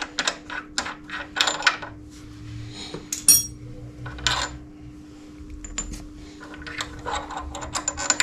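Ratchet wrench clicking in quick runs of about four to five clicks a second as the front brake caliper bolts of a Suzuki GSX-R600 are loosened and backed out. A single sharp, ringing metallic clink comes about three seconds in.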